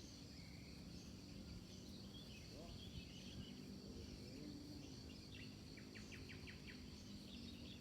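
Faint outdoor ambience of insects with a steady high-pitched drone, scattered bird-like chirps, and a quick run of about six clicks about six seconds in, over a low rumble.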